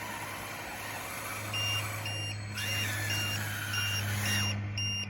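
Reversing beeps from an RC construction vehicle, about two a second, starting about a second and a half in, over a steady low motor hum.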